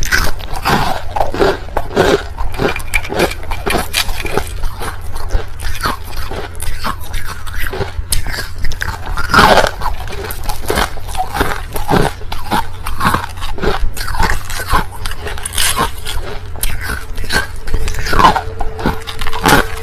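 Mouth crunching and chewing crushed ice, close up: a dense, irregular run of crisp crunches and bites.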